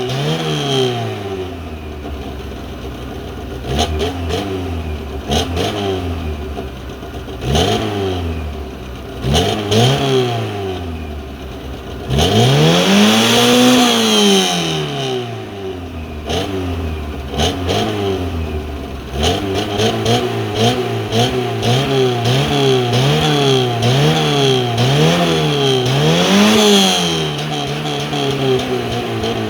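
Yugo car engine revved through its exhaust in repeated throttle blips, each rising and falling in pitch. One longer, higher rev comes about halfway through, then a quick run of short blips in the last third.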